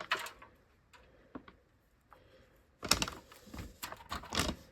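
Potting soil being scooped and sprinkled over a seed tray of sown onion seeds: irregular short rustles and scrapes, sparse at first, then a denser run about three seconds in.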